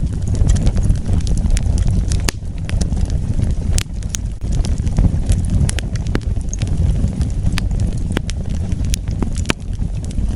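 Wood fire burning: a steady low rumble of flames with irregular sharp crackles and pops from the wood.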